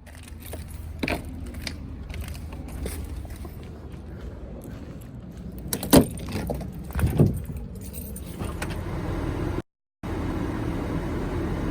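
Steady low rumble of a car heard from inside, with scattered clicks, clinks and knocks, the loudest two about six and seven seconds in; the sound cuts out for a moment near the end.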